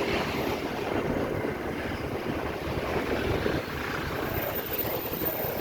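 Passing train: a steady rumble of wheels on the rails with no horn.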